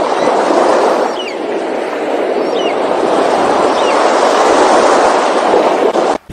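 Three short, high, falling bird cries about a second and a half apart over a loud, steady rushing noise, which cuts off suddenly near the end.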